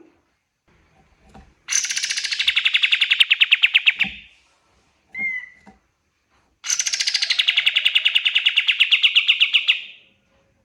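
Pied triller singing two long, rapid trills, each beginning high and dropping to a steady lower pitch, with a short single note between them.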